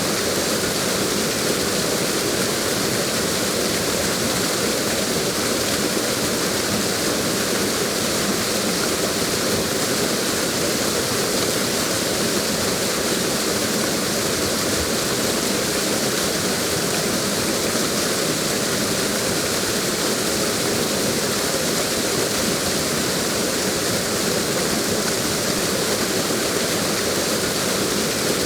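Waterfall: water falling in a steady, unbroken rush that does not change in level.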